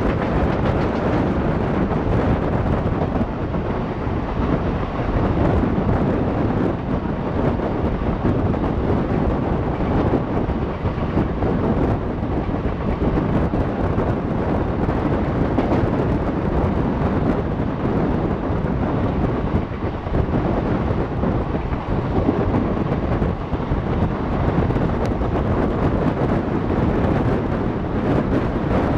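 Passenger train coach running at speed: a steady rumble of wheels on the track mixed with wind buffeting the microphone at the coach's open window or door.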